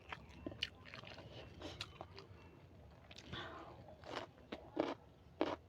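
Close-miked mouth sounds of someone eating: wet chewing with a scatter of sharp smacking clicks, the loudest of them in the second half.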